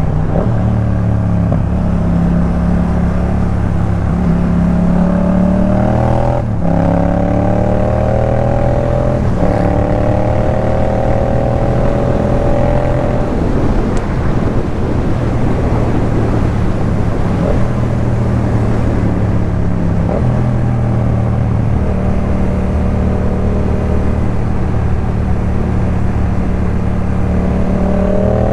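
Yamaha MT-07's parallel-twin engine through a Jeskap K4 full exhaust while riding: pulling up through the revs with two quick gear changes, then holding a steady cruise, and pulling again near the end.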